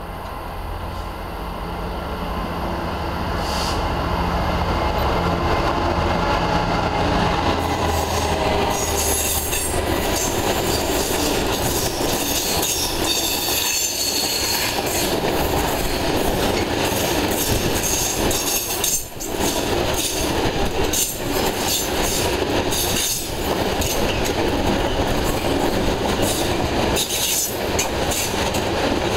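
Freight train passing: the locomotive's engine throbs as it draws closer and grows louder over the first few seconds. Then a long rake of loaded open box wagons rumbles and clatters over the rail joints, with a brief high wheel squeal about nine seconds in.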